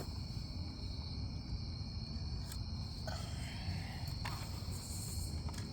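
Crickets chirping steadily in the background, with a few faint clicks.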